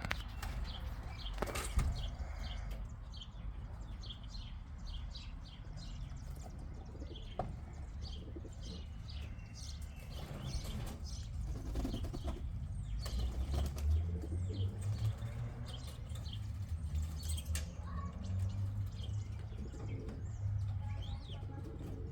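Domestic pigeons flapping their wings in many short flurries, with some cooing.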